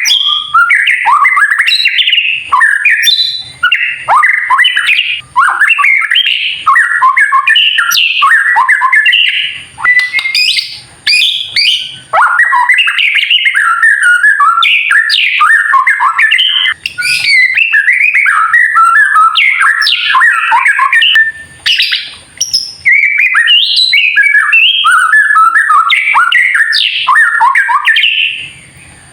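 White-rumped shama (murai batu) singing its kretekan song: a fast, nearly unbroken stream of varied chattering and whistled notes, with brief pauses about ten seconds in, again about twelve seconds in, and near the twenty-second mark.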